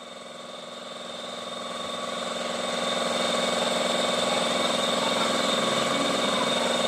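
Honda i-DSI car running steadily, with a drone of several steady tones that swells over the first three seconds and then holds. The car has a reported grinding inside its automatic transmission, with vibration and delayed shifting.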